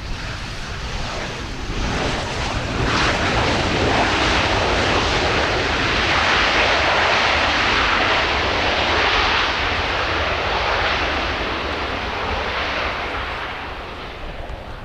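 An aircraft passing overhead. Its engine noise swells over the first couple of seconds, holds loudest through the middle, and dies away near the end.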